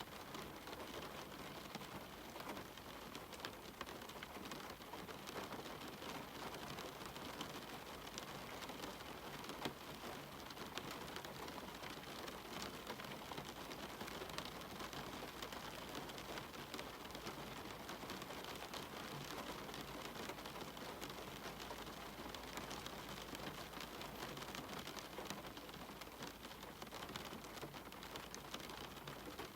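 Steady rainfall: an even hiss with many scattered drops tapping throughout.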